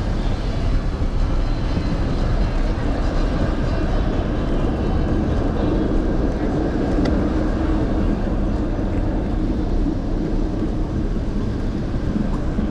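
Steady city street traffic noise with low rumble, heard from a camera on the handlebars of a moving electric scooter.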